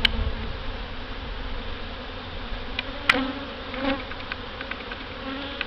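Honey bees buzzing around an open hive, a steady hum that swells and fades, with a few sharp clicks, one near the start and one about three seconds in.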